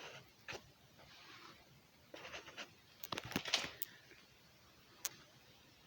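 Faint clicks and scraping from hydraulic hose quick-connect couplers being worked by hand on a tractor loader that won't release easily. A cluster of clicks comes about three seconds in and a single sharp click about five seconds in.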